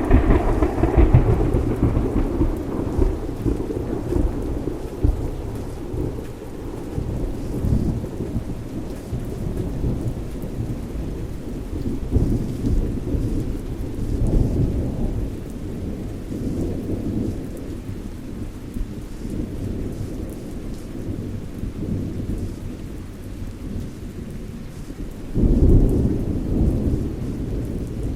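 Thunderstorm: rain falling steadily while thunder rumbles. A loud thunderclap right at the start rolls away over several seconds, and another burst of thunder comes near the end.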